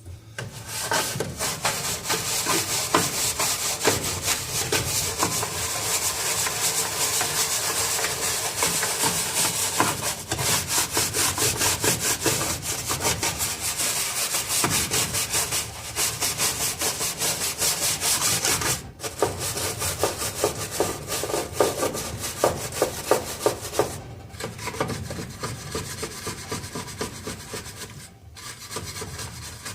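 Rapid back-and-forth scrubbing strokes of a brush or scouring pad against the basin of a furnace humidifier, scouring off limestone buildup, with a few short pauses.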